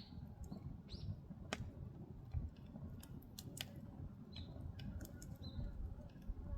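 Firewood burning in an agungi, a traditional Korean firebox: irregular sharp crackles and pops over a low, steady rumble of the fire, with a few short high chirps.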